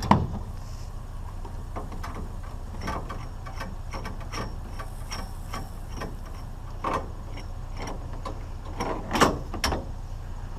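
Scrap items being handled and set down: a handful of separate knocks and clunks, the loudest two close together near the end, over a steady low hum.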